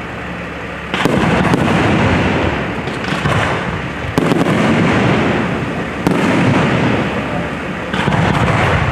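Aerial fireworks shells bursting overhead: four loud booms about two seconds apart, each trailing off in a long rumble.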